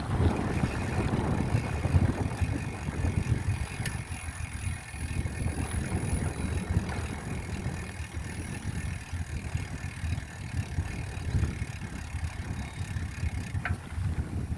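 Wind buffeting the microphone during a bicycle ride: a steady, gusty rumble with a faint hiss above it.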